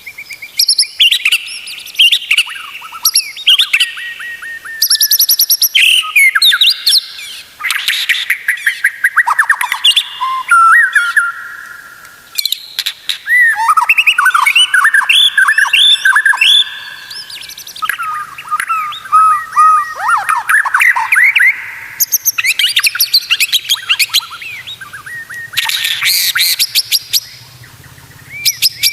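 White-rumped shama singing a long, varied song: fast trills, slurred whistles and sharp chattering notes follow one another in quick phrases, with brief pauses.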